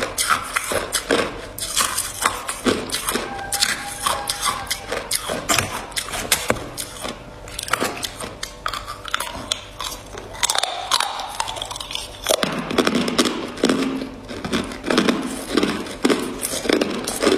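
Ice being bitten and chewed, a rapid, irregular run of sharp, close crunches with no letup.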